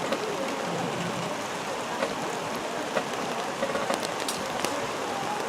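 Steady rain falling, with scattered sharp drop ticks close by.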